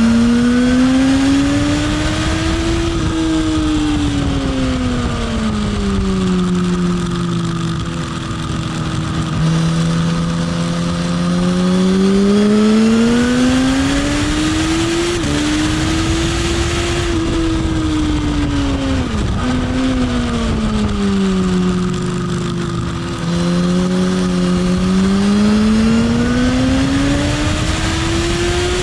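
Motorcycle engine heard onboard, rising in pitch under acceleration and falling back as it slows, in long repeated sweeps. There are abrupt pitch steps about halfway through and again about two-thirds of the way in, typical of gear changes.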